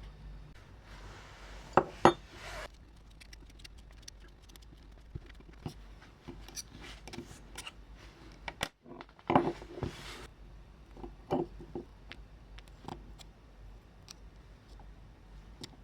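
Small metal parts and tools handled on a workbench: scattered light clicks and taps, two sharp knocks about two seconds in, and a louder clatter about nine seconds in.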